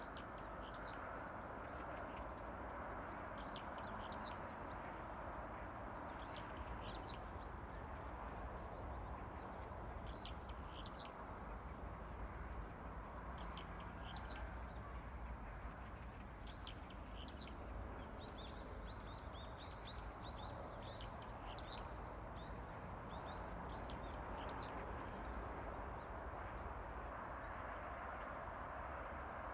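Small birds chirping in short, high calls scattered throughout, thickest about two-thirds of the way in, over a steady background hiss and low rumble.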